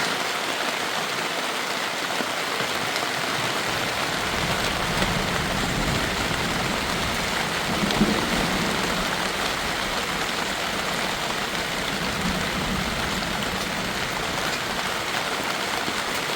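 Steady heavy rain falling and pattering on surfaces, with a low rumble joining about four seconds in.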